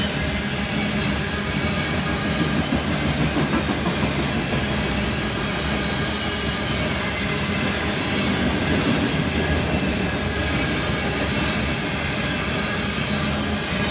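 Covered hopper cars of a CN potash freight train rolling past at speed: a steady, loud rumble and clatter of steel wheels on rail.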